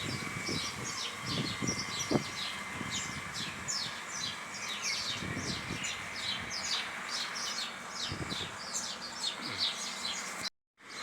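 Small birds chirping: a dense run of short, high, falling chirps, about three a second, over a steady faint high hum. The sound drops out completely for about half a second near the end.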